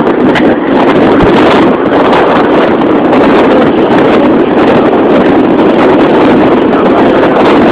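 Steady, loud wind noise buffeting the microphone aboard a moving tour boat, mixed with the rush of the boat under way.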